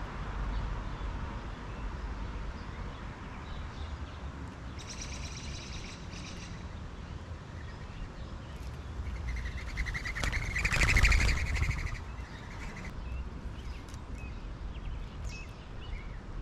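Backyard songbirds calling: a short, high trill of quick repeated notes about five seconds in, then a louder run of rapid, harsh notes a little before the middle, over a steady low background rumble.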